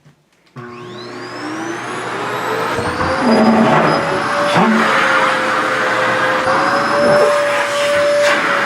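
A vacuum cleaner is switched on about half a second in, its motor whine rising in pitch as it spins up and then running steadily. From about three seconds in it is louder and the sound shifts briefly now and then as the suction pulls at a taffeta skirt.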